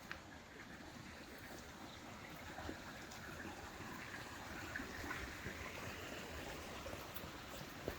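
Running water, a steady rushing and trickling that swells through the middle and eases off toward the end, with a few short clicks.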